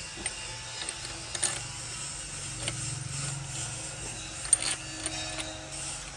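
Metal hand tools clicking and tapping on engine parts: a handful of sharp, irregular clicks, the loudest about four and a half seconds in, over a steady low hum.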